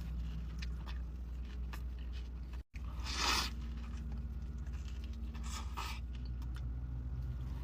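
Close-miked eating sounds: pizza crust is bitten into with a crunch about three seconds in and again a couple of seconds later, with small mouth clicks between, over a steady low hum. The sound cuts out briefly just before the first crunch.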